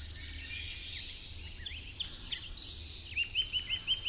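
Several wild birds singing at once, many short high chirps overlapping, with a run of about six quick repeated notes near the end, over a faint low rumble.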